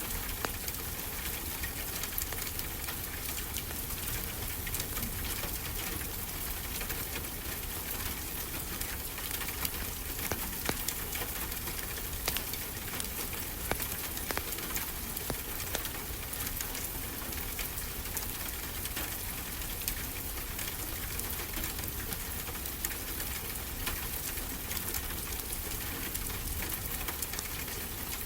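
Wood fire crackling with frequent small pops over a steady low wash of ocean surf.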